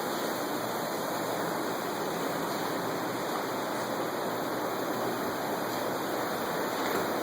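Water of Zapata Falls, a partly frozen waterfall, pouring with a steady, even rush.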